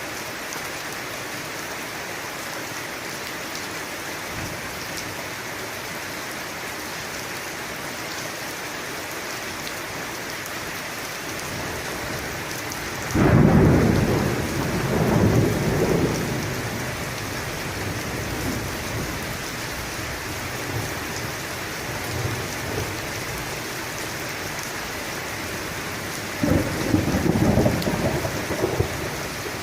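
Steady heavy rain with two claps of thunder: a sudden loud clap about halfway through that rolls on for a few seconds, and a second crackling rumble near the end.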